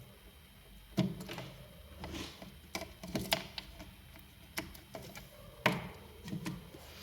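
Small tools and parts being handled on a repair bench: scattered light clicks and taps, about a dozen at uneven intervals, the sharpest a second in and again late.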